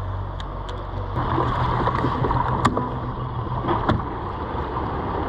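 Small jon boat underway: a steady motor hum with water and wind rushing past, the hum changing about a second in, and a few light knocks on the hull.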